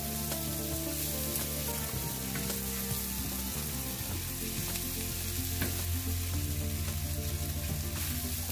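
Sliced shallots and garlic sizzling steadily in hot margarine in a nonstick frying pan as they are sautéed until fragrant, stirred with a plastic spatula that scrapes and taps the pan now and then.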